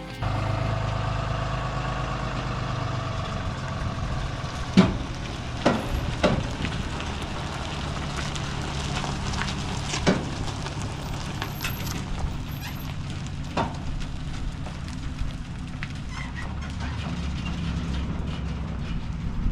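A vehicle engine running steadily with a low drone, with several sharp knocks and clanks over it, the loudest about five seconds in.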